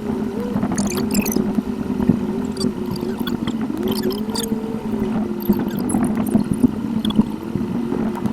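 A car's engine and road noise picked up by a dashcam, sped up eight times: a steady drone with a tone above it that keeps rising and falling, and scattered short ticks.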